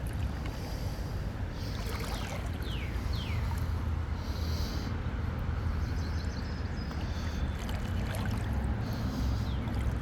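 River water sloshing and swishing around legs as a person wades through it, over a steady low rumble.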